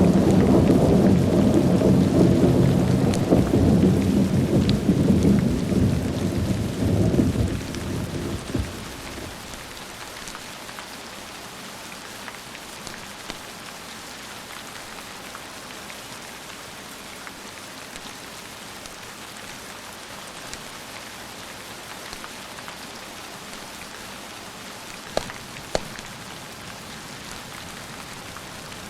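Thunder rumbling loudly over steady rain, dying away over the first nine seconds or so, then steady rain alone, with two sharp snaps a little before the end.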